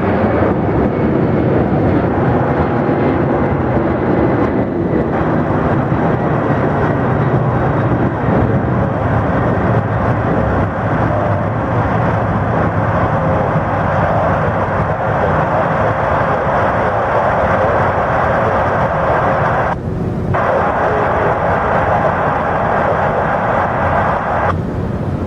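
Jet airliner engine noise, loud and steady, with a faint steady whine running through it.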